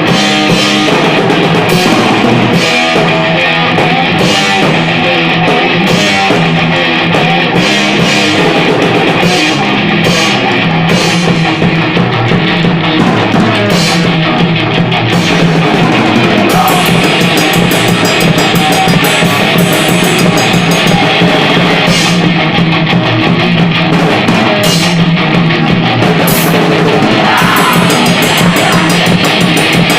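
Thrash metal band playing loud: distorted electric guitars over a drum kit. About halfway through the cymbal and drum strokes turn much faster and denser.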